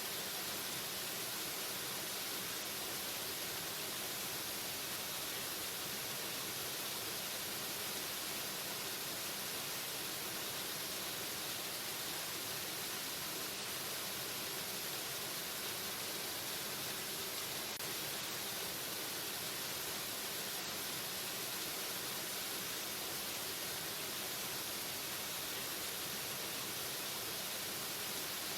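Waterfall: a steady, unbroken rush of falling water, strongest in the hiss of the spray, with no change in level.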